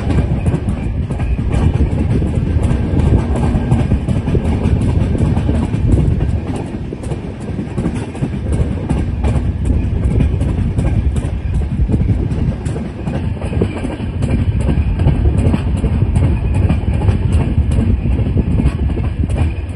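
Swaraj Express passenger train running through the station, heard from on board: a steady rumble of the wheels on the rails with a rapid clatter over the track, as the train pulls out.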